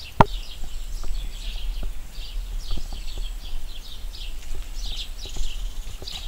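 Small birds chirping, short high downward-sliding chirps several times a second, with one sharp click just after the start and a low rumble underneath.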